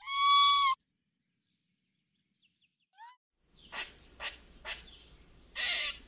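A short ringing tone at the start, then a few faint rising chirps and a run of four short, sharp animal calls.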